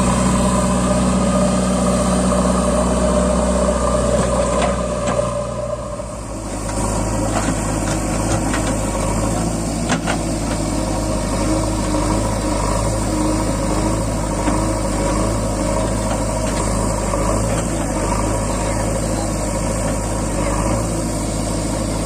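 Diesel tractor engine running steadily; about six seconds in its note changes, with a brief dip in loudness, then it runs on at a new steady pitch.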